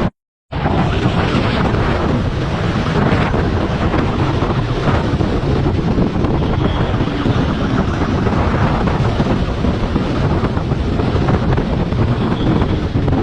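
Heavy wind rush buffeting the microphone, loud and steady, starting after a brief dead-silent gap right at the start.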